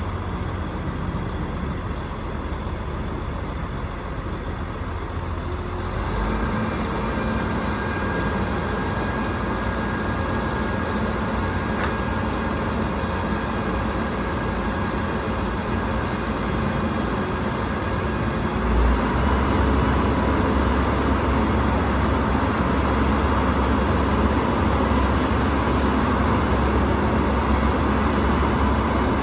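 Rooftop HVAC unit running steadily. It grows a little louder about six seconds in, and about nineteen seconds in it steps up again with a strong low hum.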